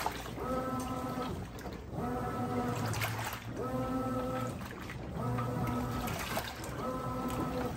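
Brastemp 17 kg washing machine agitating a load: the motor whines for about a second on each stroke, then pauses as water sloshes in the drum, in a regular back-and-forth rhythm of about one stroke every second and a half.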